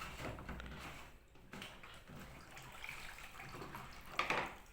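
Dirty water trickling out of an LG washer dryer's opened drain-pump filter onto a towel, the machine being drained by hand because its drain pump has failed. A brief louder noise comes near the end.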